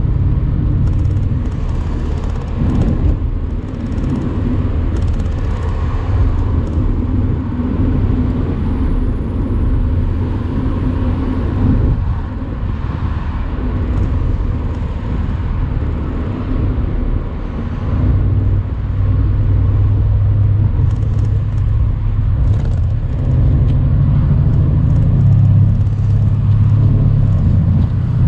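Mercedes-AMG C63's twin-turbo V8 running on the move, its note rising and falling with the throttle and building toward the end.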